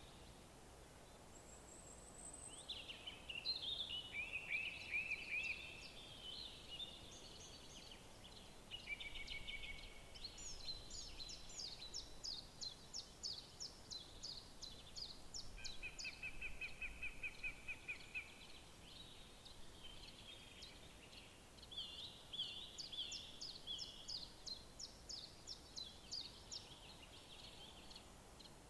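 Songbirds singing in woodland: a string of varied phrases and rapid trills, including a fast run of repeated notes in the middle and again near the end, over a faint steady background hiss.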